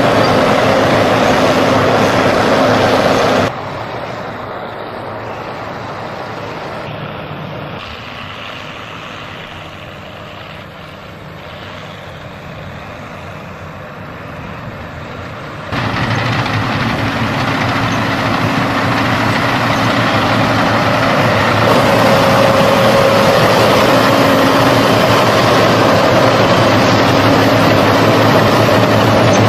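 Heavy tractor engines running under load. The sound is loud, drops abruptly to a quieter engine hum about three seconds in, and returns abruptly to loud engine noise about halfway through.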